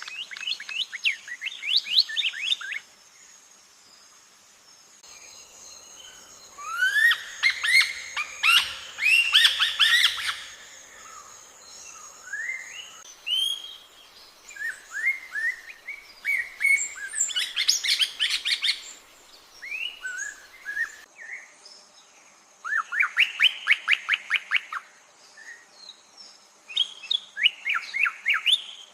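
Birds singing: repeated phrases of quick, rising whistled notes, in bursts with short pauses between them, over a faint steady high-pitched background.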